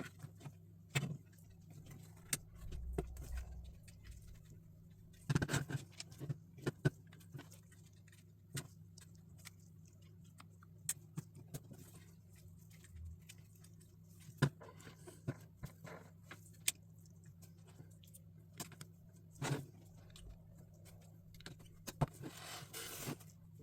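LEGO plastic pieces being handled and pressed together: irregular sharp clicks and short rattles, over a steady low electrical hum.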